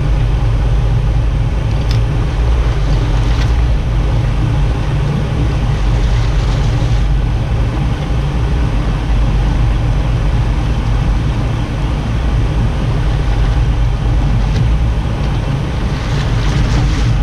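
Engine of a large fishing boat running steadily under way, heard on board as a constant low drone with the wash of the water over it.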